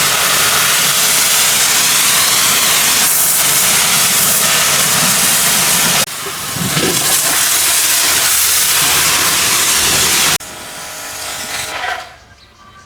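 High-pressure washer spraying, a loud steady hiss. It dips briefly about halfway through, drops lower near the end and then stops.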